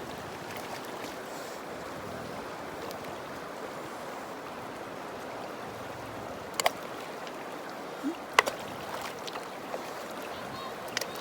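Steady rush of running stream water, with a few sharp knocks about two-thirds of the way in and again near the end.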